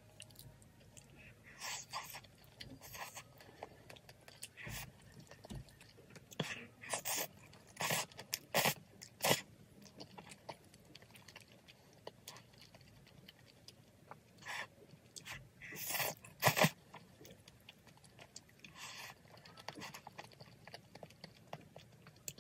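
Close-up eating sounds of a person eating spicy braised chicken with glass noodles: moist chewing and mouth smacks with irregular short clicks, the loudest cluster about sixteen seconds in.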